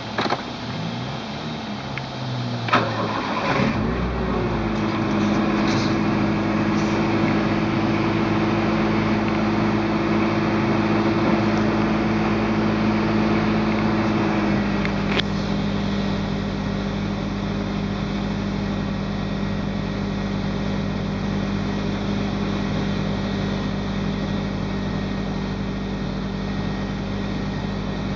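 Toyota AE86's 4A-GEU 1.6-litre twin-cam four-cylinder being started: it cranks and catches about three seconds in, runs at a fast idle, then settles to a lower steady idle about halfway through.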